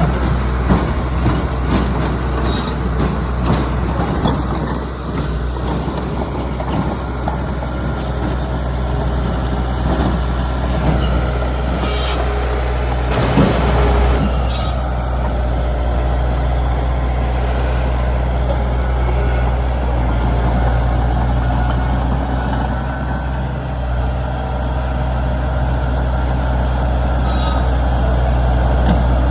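Heavy diesel engines of a crawler bulldozer and dump trucks running steadily, with a low drone, scattered knocks and a short burst of hissing noise about halfway through.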